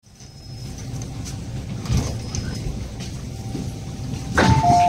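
Low rumble inside the carriage of an MTR Island Line Q-train, fading in from silence, with a knock about two seconds in. Near the end comes a two-note falling chime.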